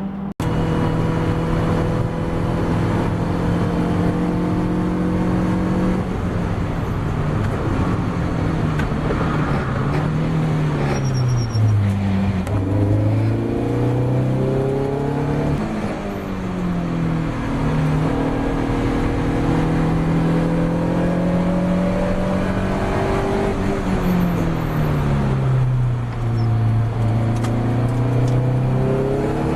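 Ginetta G40 race car's four-cylinder engine running under load, most likely heard from on board. It holds steady revs for several seconds at a time, drops in pitch twice as the car slows, and climbs again.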